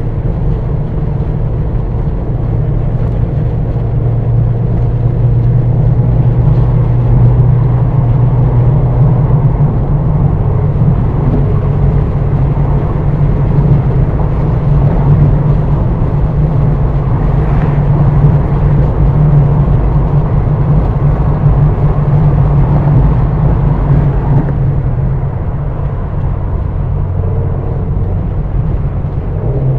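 2022 Mazda MX-5 Miata's 2.0-litre four-cylinder engine running steadily at freeway cruising speed, mixed with tyre and wind noise, heard from the driver's seat with the roof open.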